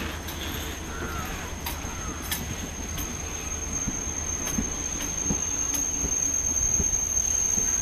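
Indian Railways passenger coaches rolling slowly past, their wheels clicking over rail joints with faint wheel squeal. A thin, steady high whine grows stronger about six seconds in.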